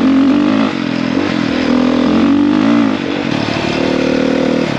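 450cc dirt bike's single-cylinder four-stroke engine running under way, its pitch rising and falling as the throttle is opened and eased off, with dips about a second in and again about three seconds in.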